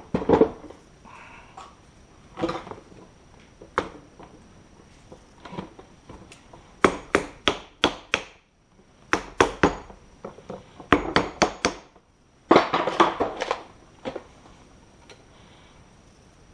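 Sharp metal-on-metal knocks from hand tools working on a coilover strut. Most come in quick runs of three or four, about four a second, and a short rough scraping clatter follows about 12 seconds in.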